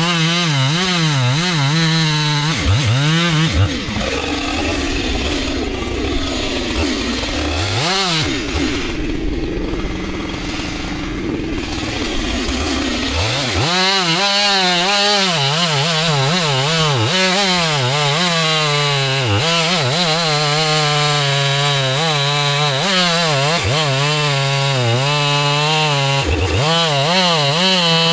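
Two-stroke chainsaw running at high revs, its pitch wavering as it works through wood. About three seconds in, its steady note drops away for about ten seconds, then comes back up and runs on.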